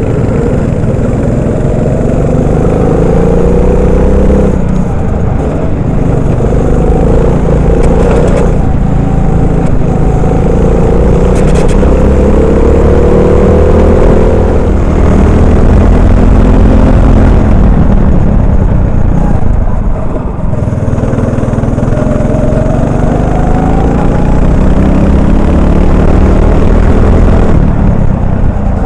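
Onboard sound of a Honda GX390 single-cylinder four-stroke kart engine at racing speed. Its pitch climbs steadily several times under full throttle and drops off each time the throttle is lifted, over a constant rush of wind and tyre noise.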